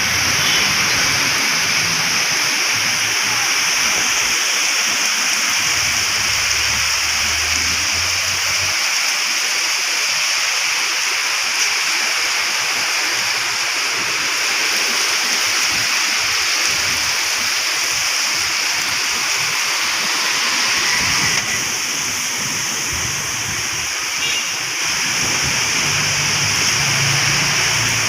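Heavy rain pouring down steadily as a dense, even hiss, with low rumbles coming and going.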